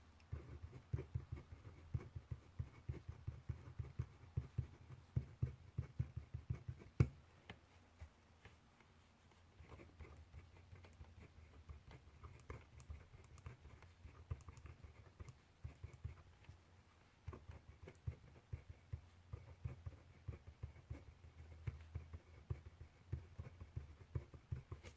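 Handwriting on paper at a desk: a dense run of small taps and scratches from the writing tip, with one louder knock about seven seconds in and a sparser, quieter stretch in the middle.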